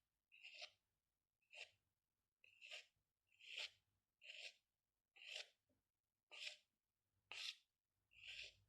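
Faint short strokes of drawing on paper, about one a second, nine in all.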